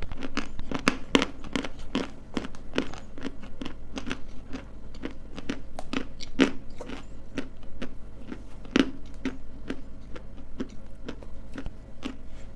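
Close-miked crunching and chewing: a dense run of sharp, crisp crunches, several a second, as something hard and brittle is bitten and chewed.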